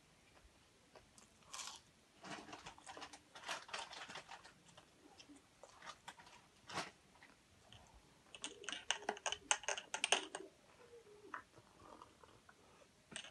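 A person chewing and crunching a crisp fried samosa, with irregular crunches and a dense run of crunching about eight to ten seconds in.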